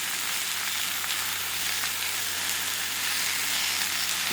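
Top sirloin steaks and shrimp frying in butter on a Blackstone flat-top griddle: a steady sizzle, with a faint low hum beneath it.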